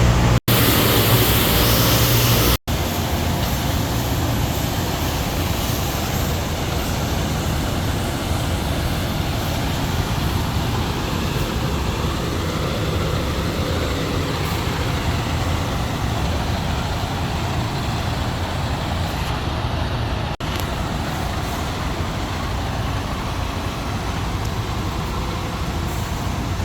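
Steady running noise of a semi-truck, with two very short dropouts to silence in the first three seconds.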